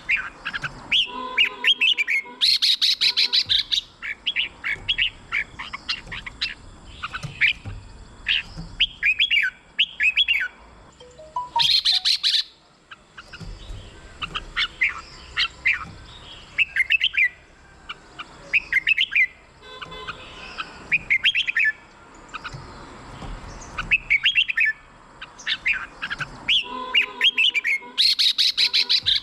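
Red-whiskered bulbul singing: short, repeated phrases of quick whistled notes. A few brief bursts of rapid, harsh chattering notes come in between.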